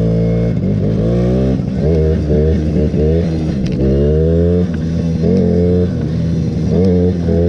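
Suzuki LT50 mini quad's small two-stroke engine revving in short bursts, its pitch climbing and falling back about once a second.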